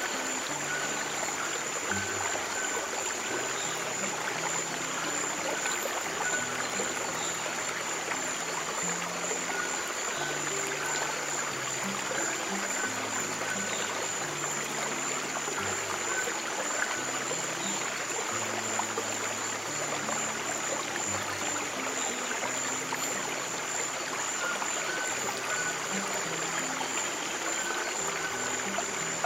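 Running stream water over slow, soft low piano notes, with a thin steady high tone.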